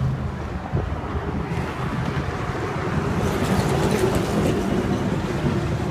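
Wind buffeting the microphone: a rough, steady rumble that swells a little about three seconds in.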